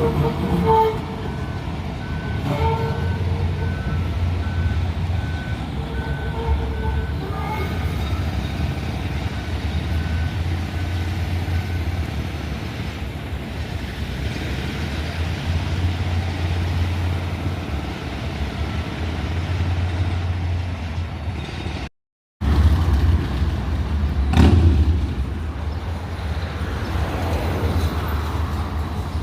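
Light rail train running with a steady low rumble, while a series of short high beeps repeats evenly for about the first ten seconds. Later there is a single louder clunk.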